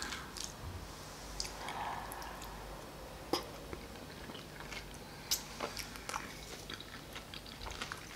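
A person chewing a mouthful of crisp salad close to the microphone, with scattered small crunches and clicks.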